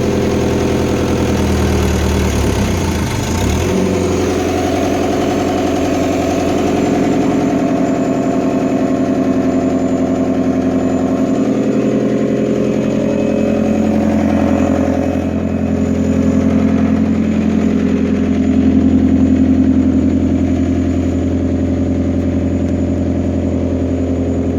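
Diesel engine of a Fiat Hitachi FH150 tracked excavator running steadily as the machine tracks along, its note shifting about four seconds in. The engine runs on an injection pump that has just been resealed.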